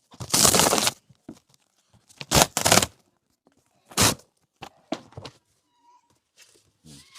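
Packaging being ripped off a brand-new chest freezer: three loud tearing rips, the first lasting most of a second, with smaller rustles and crinkles between them.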